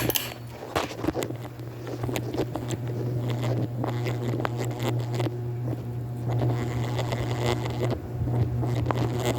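Hunter Medalist ceiling fan starting up. A click, then a steady low motor hum that grows gradually louder as the fan comes up to speed, with scattered light clicks.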